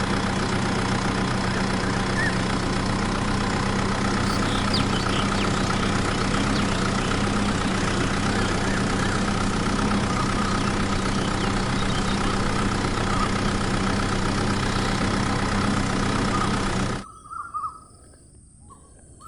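Small engine running steadily at a constant speed, cutting off abruptly near the end.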